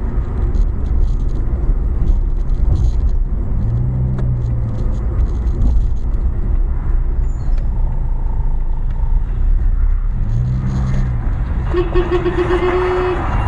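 Car driving in traffic, picked up by a dashcam: a steady low rumble of road and engine noise, with a steady tone about a second long near the end.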